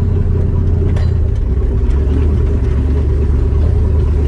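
LS V8 engine swapped into a Toyota Tacoma, running with a steady low drone; its pitch drops slightly about a second in.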